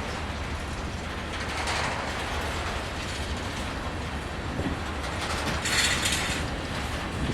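Freight train cars rolling past on the rails, with a steady rumble and clicking wheels, and a brief burst of high hiss about six seconds in.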